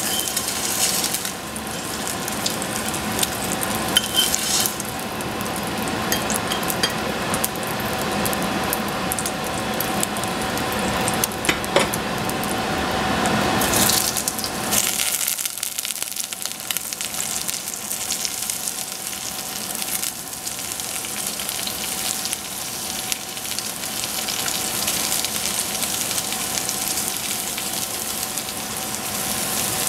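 Food sizzling as it fries in a pan, a steady crackle with scattered clicks and scrapes of a utensil stirring it.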